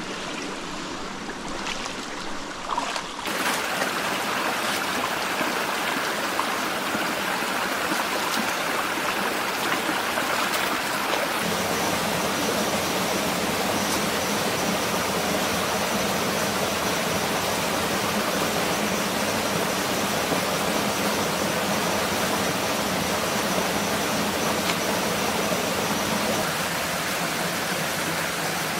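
Rushing water, a steady stream-like noise, getting louder about three seconds in.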